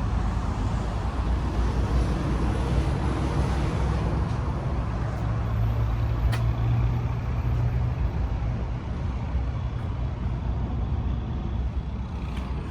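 Motor vehicle running, a steady low rumble, with a stronger engine tone from about five to eight seconds in.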